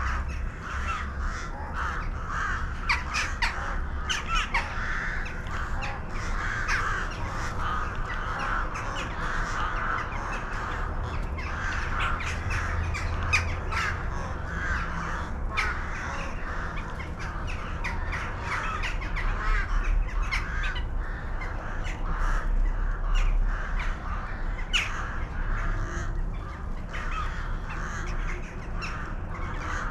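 A large flock of birds calling all at once: a dense, unbroken chatter of many overlapping calls, with sharper individual calls standing out now and then.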